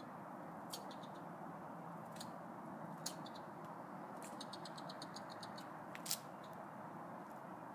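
Squirrel chattering: short runs of rapid, high-pitched chips, the longest a quick string of about a dozen near the middle, with single sharp chips between. Under it is a steady low background hum.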